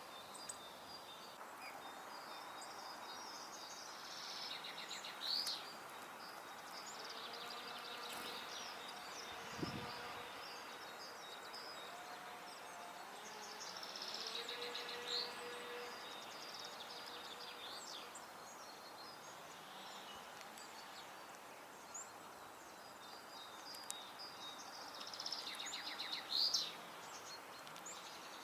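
Wild garden songbirds singing short, high, trilled phrases every few seconds over a steady outdoor background hiss. A single dull thud comes about ten seconds in.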